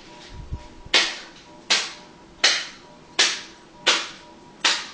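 Hand smacking a small plastic packet of fruit snacks up into the air over and over: six sharp slaps, evenly spaced about three-quarters of a second apart.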